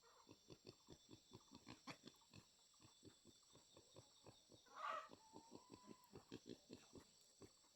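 Pig making faint, quick rhythmic grunts, about five a second, with one louder squeal about five seconds in. Insects shrill steadily behind.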